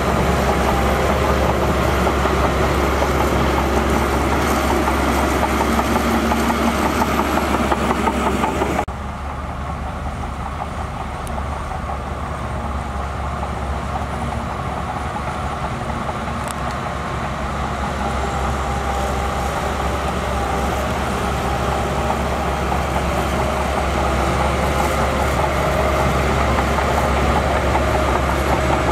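Heavy diesel earthmoving machinery running steadily, with a strong low engine rumble. The sound drops suddenly about nine seconds in, then slowly grows louder again.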